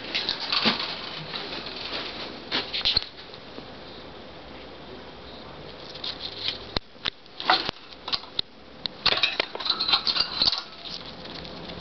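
Quaker parrots moving about: scratchy rustling, sharp clicks and patter in bursts, with a quieter stretch in the middle.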